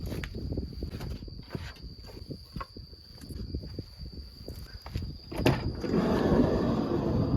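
Insects trilling steadily outdoors, with scattered small clicks and knocks of handling and footsteps, and a louder rustling, scraping noise near the end.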